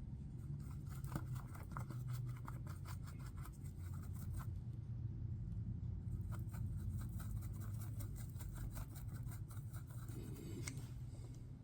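Quick light ticking and scratching of an applicator dabbing mica powder into the toes of a silicone mold, in two runs separated by a short pause, over a low steady hum.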